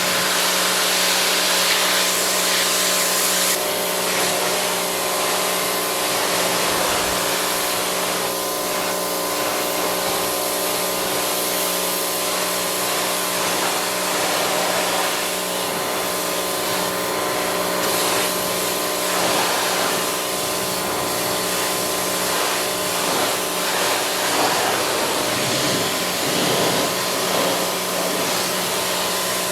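Pressure washer running steadily, its motor humming under the hiss of the water spray.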